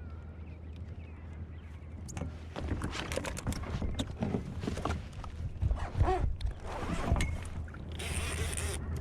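Water sloshing and splashing against a kayak, with a run of knocks and clatter of gear on the hull in the middle and a short hissing splash near the end.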